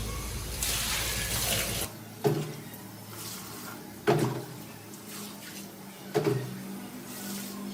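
Water splashing and sloshing, with a sharp splash or knock about every two seconds. A steady hiss of running or spraying water stops about two seconds in.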